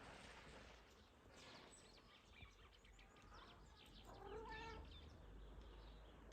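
A cat meows once, faintly, about four seconds in, after a few faint scratchy noises.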